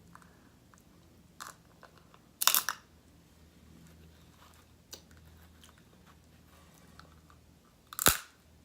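Close-miked eating of snow crab and shrimp: a few sharp crunches and cracks, with a loud cluster about two and a half seconds in and the loudest crack near the end, and quiet chewing between.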